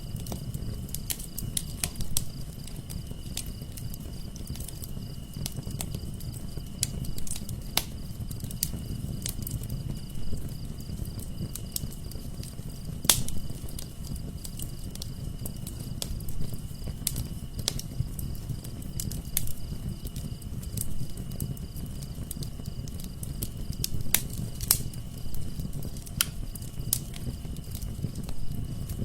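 Wood fire burning in a fireplace: a low steady rumble of flames with irregular sharp crackles and pops, a few louder ones standing out. A thin, steady high-pitched tone runs beneath.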